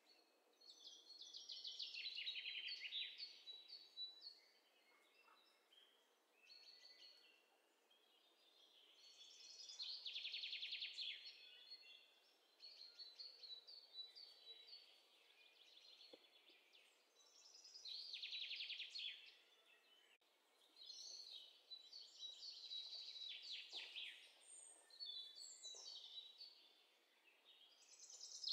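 Faint bird chirping in rapid high trills, coming in bursts a few seconds long every several seconds.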